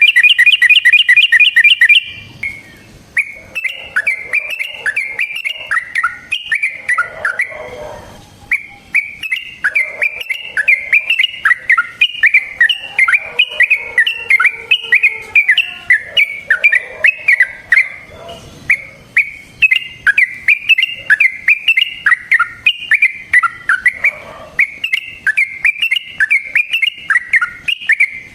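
Yellow-vented bulbul (trucukan) in full song: long, fast runs of bubbly, chattering notes. It opens with a rapid, very even trill for about two seconds, then sings almost without pause, with short breaks about three and eight seconds in. This is the bird's fighting song for calling out a rival.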